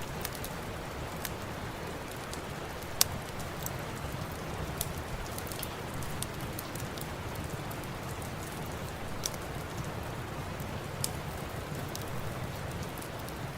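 Steady rain hiss with scattered sharp pops and crackles from a wood fire in a fireplace; the loudest pop comes about three seconds in.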